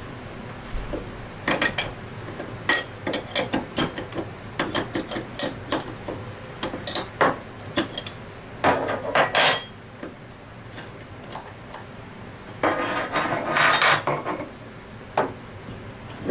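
Metal seal-installation fixtures and tools clinking and tapping against scroll pump parts on a workbench. A long run of sharp metallic clinks is followed, about thirteen seconds in, by a denser clattering rattle.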